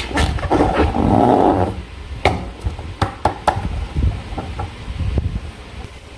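Slime being squeezed and worked by hand: a wet squelch lasting about a second and a half, then a string of sharp clicks and pops.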